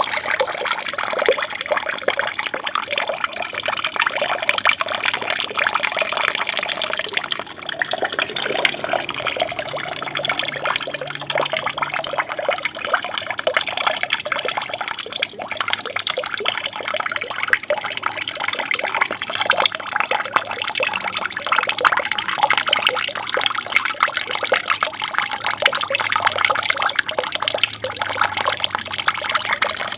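Water from an aquarium waterfall pouring and splashing steadily into the tank, a continuous babbling trickle.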